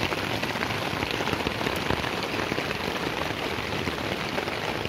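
Downpour of heavy rain: a dense, steady patter of drops.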